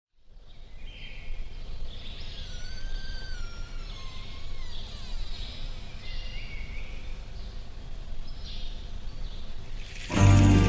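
Outdoor nature ambience: a steady hiss and low rumble with high chirps gliding up and down in pitch, then music comes in loudly about ten seconds in.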